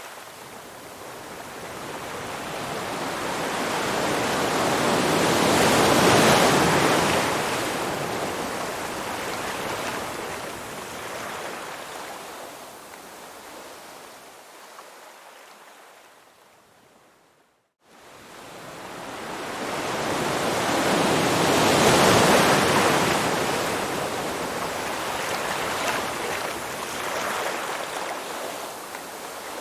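Rushing water noise that twice swells up slowly and fades away, much like waves surging in, dropping out almost completely for a moment a little past halfway.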